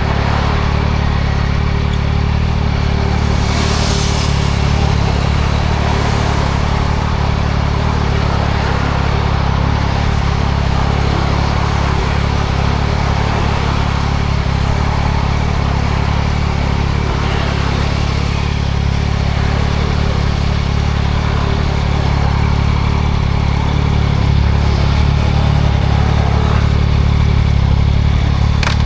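2024 Yamaha MT-09 SP's three-cylinder engine through a Spark triple-exit full exhaust, running steadily on the move, under a constant hiss of wind and road noise. The engine gets a little louder near the end.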